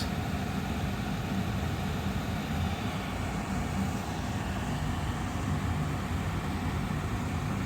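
Austin Air HealthMate air purifier's fan running steadily: an even rush of air with a low hum underneath.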